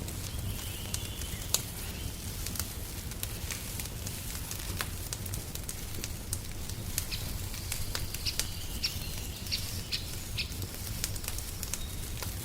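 Wood fire crackling in a fireplace: scattered sharp pops and snaps over a low steady rumble, the loudest pop about a second and a half in. Small birds chirp in short high phrases near the start and again through the second half.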